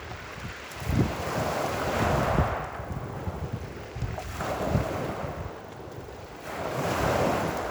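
Wind gusting against the microphone: a rushing noise that swells and fades about every three seconds, with low rumbling buffets.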